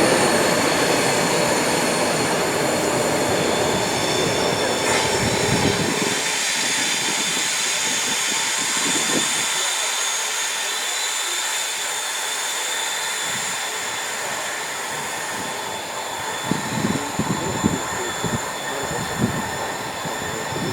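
A test train hauled by class 73 locomotives running past on the track, with several steady high-pitched squealing tones from the wheels on the rails. The low rumble fades away about six seconds in.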